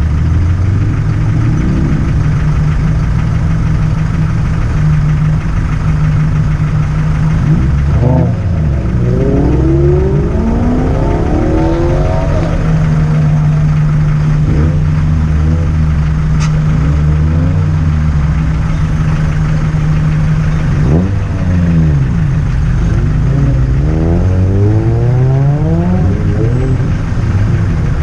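Car engines running steadily, with the engine note rising and falling several times as vehicles rev or pull away.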